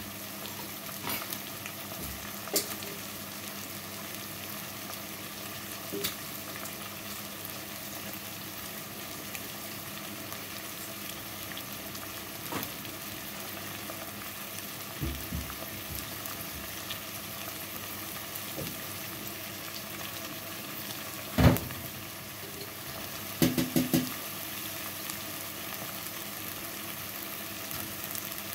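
Chicken frying in a pan with a steady sizzle. A few sharp knocks cut through it; the loudest comes about three-quarters of the way through, and a quick run of three or four follows soon after.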